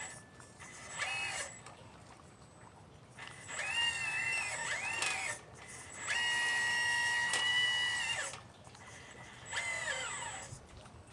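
Radio-controlled Liebherr 954 model excavator's electric motors whining in separate spells, each rising in pitch as it starts and falling as it stops: a short one about a second in, two around four to five seconds, a long steady one from about six to eight seconds, and a last one near the end.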